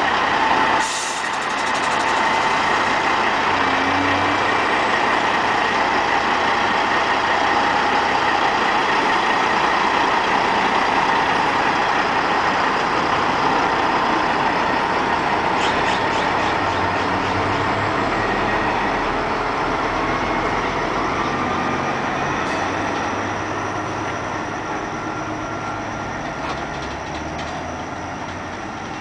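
Kenworth truck running, a loud steady mix of engine and air noise, with a short sharp knock about a second in; it fades slowly over the last several seconds.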